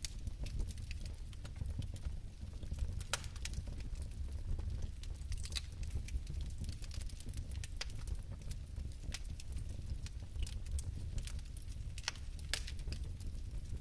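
Flame of an ethanol bio-fireplace burning with a steady low rumble and scattered sharp crackles.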